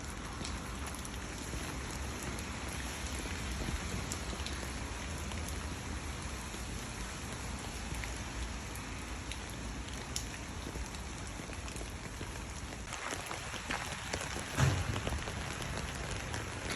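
Rain falling steadily, an even patter with scattered drops ticking on a surface. A single louder thump about three quarters of the way through.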